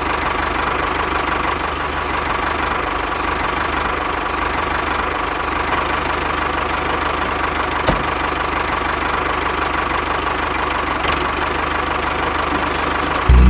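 Engine of a homemade DIY tractor running steadily, with one short click about eight seconds in.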